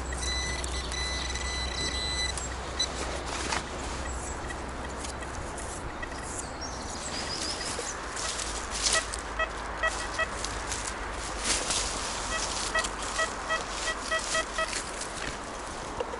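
Metal detector sounding: a held high tone in the first two seconds, then a string of short repeated beeps from about the middle on. Under it run a steady noise of wind and distant road traffic and scattered rustling steps in leaf litter.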